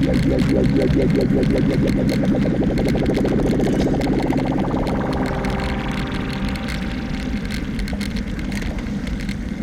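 A motor vehicle's engine running close by with a regular pulsing note, slowly fading away, over rumbling road and wind noise.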